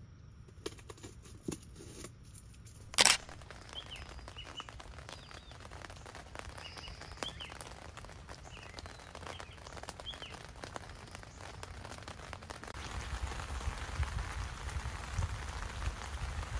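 Rain on a tent, heard from inside, with birds chirping in short calls in the first half. The rain grows louder in the last few seconds. There is a single sharp click about three seconds in.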